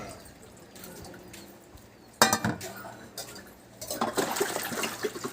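A sharp clink about two seconds in, then light rattling and clattering near the end, as of small hard objects or dishes knocking together.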